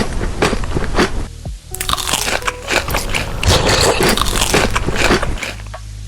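Close-up crunching and chewing of crisp food, in dense runs of crackly bites with a short break about a second and a half in.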